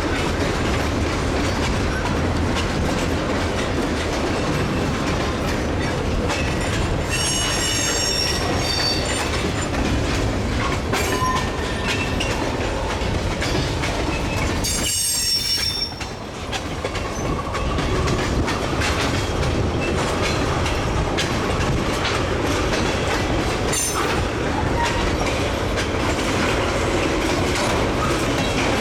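Freight train of tank cars rolling by slowly with a steady rumble and wheels knocking over rail joints. Steel wheels squeal high-pitched against the rails twice, about a quarter and about half way through.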